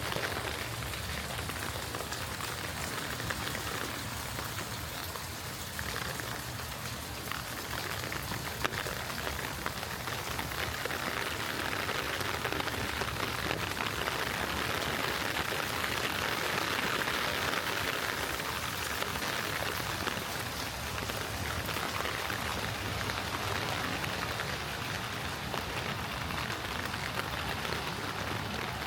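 Gentle rain falling and pattering on surfaces: a steady hiss of drops that swells a little in the middle.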